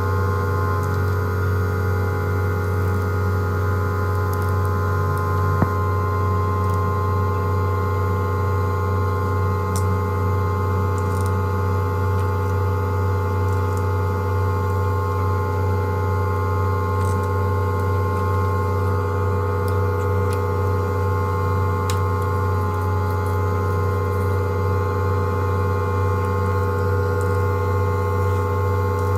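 Steady electric machine hum: a strong low drone with several constant higher tones, unchanging throughout, and a single click about five and a half seconds in.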